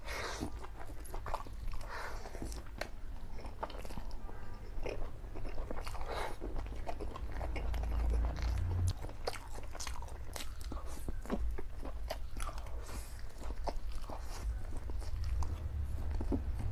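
Close-up chewing of soft Samyang black bean noodles and a fried egg: a continuous run of small, quick mouth clicks.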